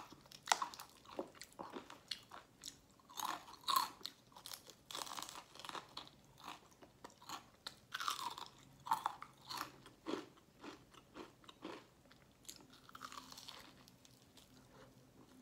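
Close-up biting and chewing of crispy fried chicken: irregular crackling crunches of the breaded crust, thinning out to quieter chewing near the end.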